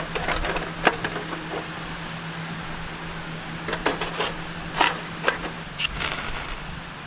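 Scattered clinks and knocks of camp cookware and utensils being handled during cooking preparation, with a few sharp taps near the start and a cluster of them about four to five seconds in.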